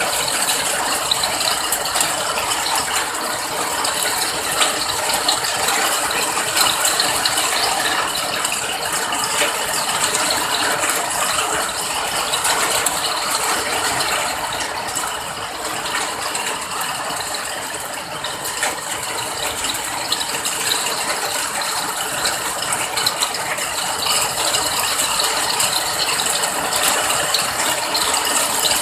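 Steady rain falling, a dense stream of many small drop ticks with no let-up.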